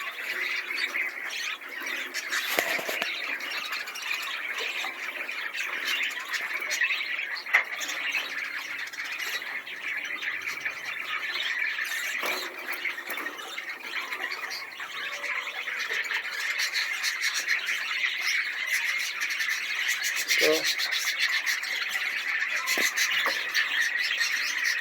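Dutch-type budgerigar chattering and warbling without a break, a dense run of quick squawks, clicks and chirps.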